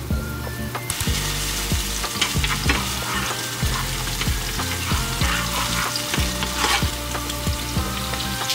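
Food frying in oil in a pan, a steady dense sizzle.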